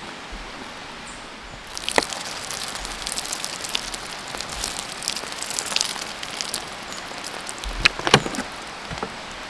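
Sizzling and crackling of food grilling over a charcoal fire: a steady hiss, joined about two seconds in by a dense run of crackles and sharp pops, with a loud cluster of pops near the end.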